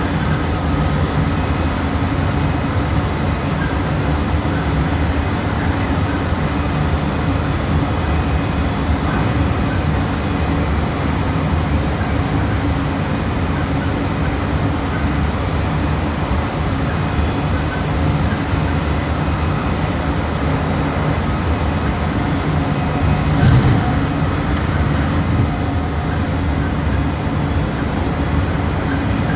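Meitetsu 3150 series electric multiple unit heard from inside, running at a steady speed: a continuous rumble of wheels on rail with a steady motor hum. About 23 seconds in there is one brief louder burst of noise.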